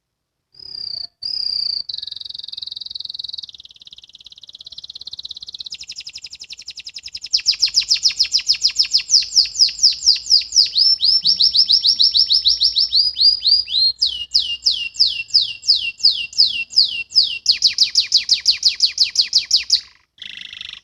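A domestic canary sings a long, loud song made of rapid trills. It shifts to a new repeated phrase every few seconds, including fast rolling 'ngriwik' runs of down-slurred notes. The song breaks off abruptly near the end.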